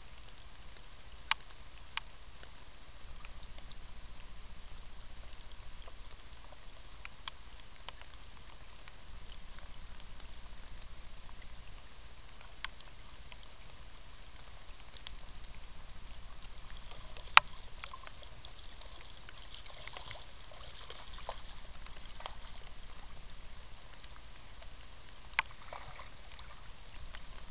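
Rain falling on a shallow stream and woodland, a steady hiss of water with a handful of sharp single drip ticks, the loudest about seventeen seconds in.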